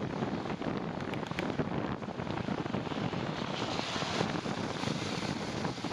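Steady rushing wind noise buffeting the microphone of a camera carried on a moving bicycle.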